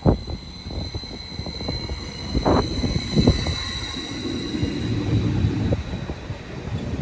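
A train moving through the station: a low rumble with irregular clattering knocks, and a steady high-pitched whine.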